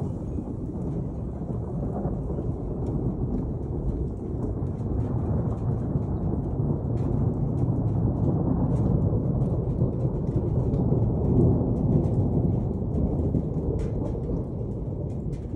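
Long rolling rumble of thunder that swells in the middle and eases off near the end, over steady rain with scattered drops ticking.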